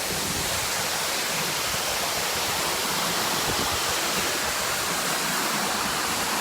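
Waterfall crashing into its pool: a steady, even rush of falling water.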